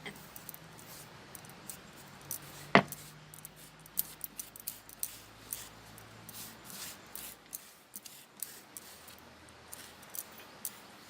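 Hand grinding on a stone sil-batta: irregular small clicks and crunches of stone on stone, with one sharp knock about three seconds in.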